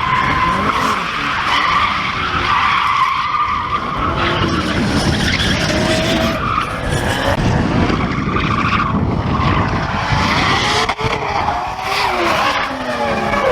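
Drift cars sliding, with tyres squealing steadily and engines revving up and down.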